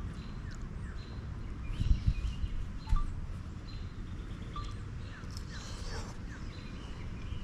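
Outdoor ambience: a steady low rumble with a few short, faint bird chirps, and a couple of soft bumps about two and three seconds in.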